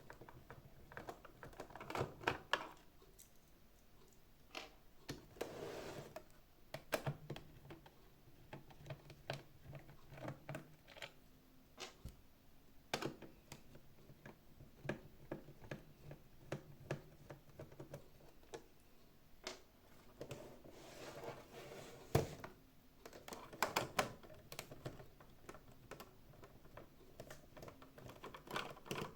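Irregular clicks, taps and short scrapes of hands and small tools working on the plastic housing and parts of a Xiaomi Mijia 1C robot vacuum during disassembly, with a few sharper knocks.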